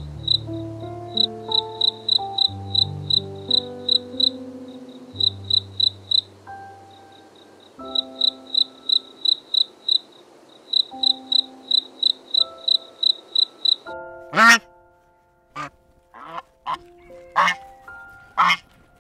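Crickets chirping in a steady run of short, high chirps, about three a second with a couple of brief pauses, over soft background music. Near the end, geese give several loud honks.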